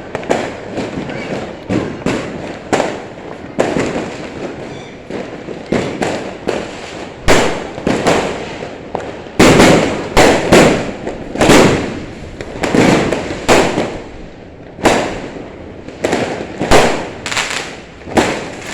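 Aerial fireworks going off in a dense, irregular string of sharp bangs, many trailed by a rumbling smear, with the loudest cluster of blasts near the middle.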